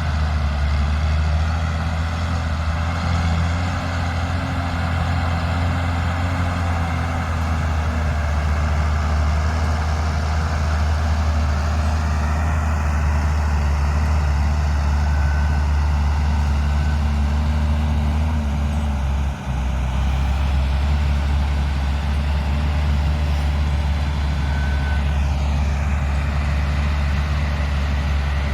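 Combine harvester's heavy diesel engine and machinery running steadily with a deep drone, with a brief dip about two-thirds of the way through.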